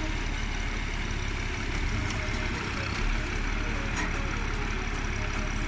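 Engine of heavy forestry machinery running steadily, with a faint click about four seconds in.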